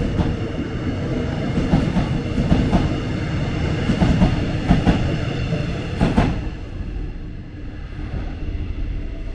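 Locomotive-hauled Korail passenger train passing close by: a loud rumble with repeated clacks of the wheels over rail joints. It dies away about six and a half seconds in as the last coach goes by, leaving a fainter rumble.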